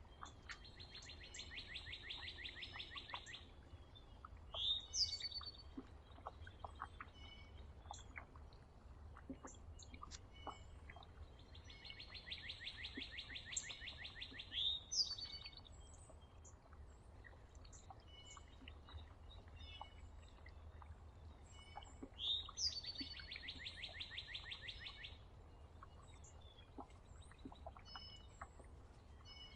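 A songbird sings a fast, even trill three times, about ten seconds apart. Each trill lasts about three seconds and ends in a short, loud rising note. Scattered short chips from other birds sound between the songs.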